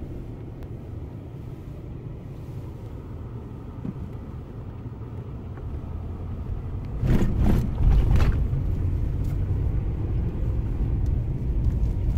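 Truck driving on a rough back road: a steady low rumble of engine and tyres that grows louder past the middle, with a few sharp knocks about seven to eight seconds in.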